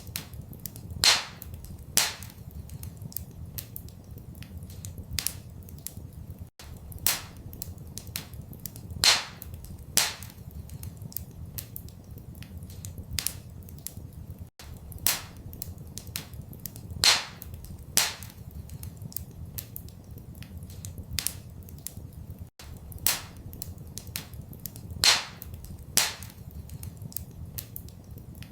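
Crackling log fire: sharp pops and snaps, a couple of louder ones every few seconds among small crackles, over a low steady rumble. The same pattern of pops repeats every eight seconds, as in a short loop.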